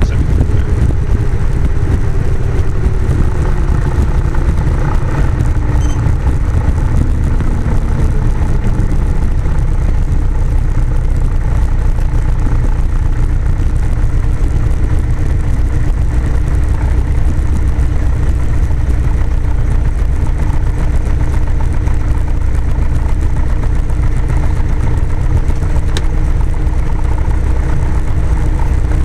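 Cessna 172's piston engine and propeller running with a steady low drone. A tone in it falls in pitch over the first several seconds, then holds level.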